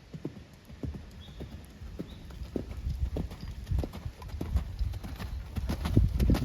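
Hoofbeats of a warmblood horse being ridden, a run of dull thuds that grows louder toward the end as the horse comes closer.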